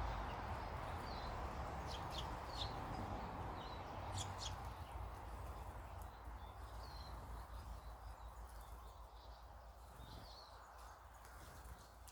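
Small birds chirping with short, sharp calls, over a low rumble that slowly dies away.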